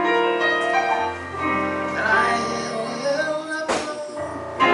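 A solo voice sings a slow gospel hymn over sustained keyboard chords. Near the end a brief noise cuts across the music, and a new chord begins.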